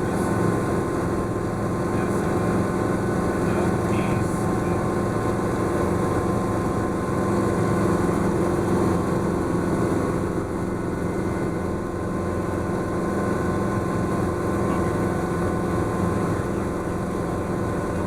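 Schweizer S-300CBi helicopter's piston engine and rotors running steadily, heard from inside the cabin in flight.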